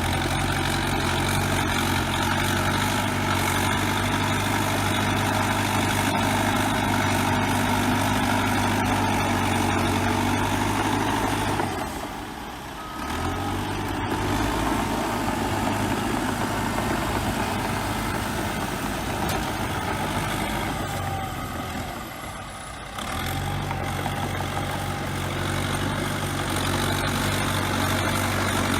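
Bulldozer diesel engine running steadily under work, with two brief drops in level along the way.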